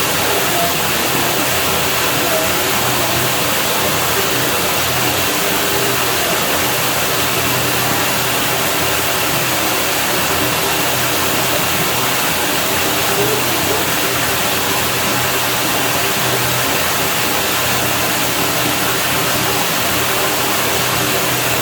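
Steady rushing pool water, an even unbroken wash of sound with a faint low hum underneath.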